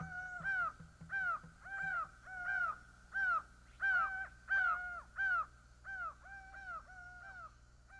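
A bird giving harsh, crow-like cawing calls over and over, two to three a second, loudest in the middle and thinning out near the end.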